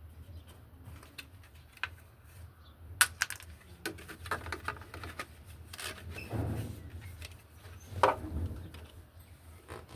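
Scattered clicks and knocks of plastic and metal parts being handled while a washing machine's control board is refitted, the sharpest about three and eight seconds in, over a faint steady low hum.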